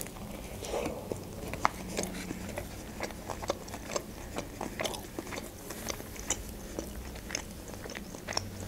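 A person biting into and chewing a shawarma wrap close to the microphone: a bite at the start, then steady chewing with many short mouth clicks.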